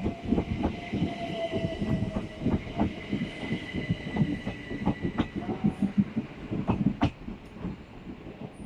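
Southeastern Class 375 Electrostar electric multiple unit moving along the platform. Its wheels clack rapidly over the rail joints and a motor whine falls slowly in pitch, with the sound easing off toward the end.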